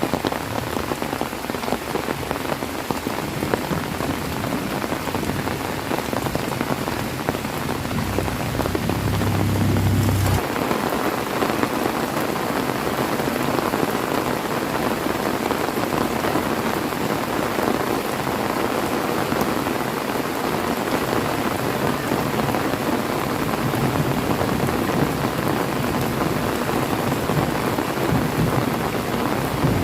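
Heavy rain falling steadily. A low rumble of thunder comes in about eight seconds in and cuts off abruptly after a couple of seconds, and another rumble builds near the end.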